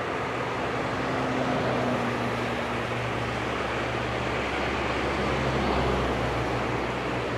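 Jet engines of a Boeing twin-engine airliner running: a steady rushing noise with a faint low hum underneath.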